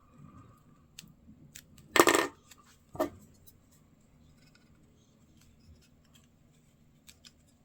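Small objects handled on a workbench: one sharp clatter about two seconds in, a shorter knock a second later, and light scattered ticks.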